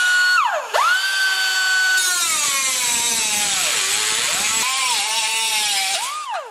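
High-speed power tool cutting into rusted car-body sheet metal. Its whine dips sharply about half a second in as it bites, recovers, then sags and wavers under load, with a hiss of abrasion over it.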